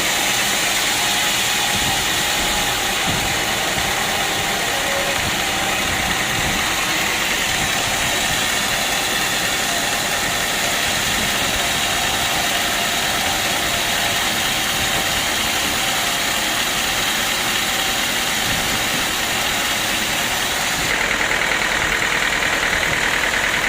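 Sawmill saw running with a loud, steady mechanical noise. About 21 seconds in, the tone shifts.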